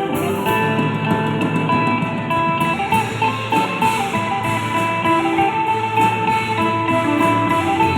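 Isan pong lang folk ensemble playing a tune led by plucked strings, such as the phin lute, over a steady beat of light percussion strokes.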